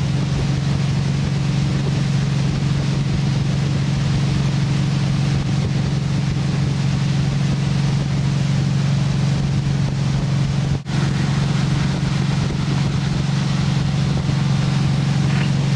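Ski boat's engine running steadily at towing speed, a constant hum with wind and water noise over it. The sound cuts out for an instant about eleven seconds in.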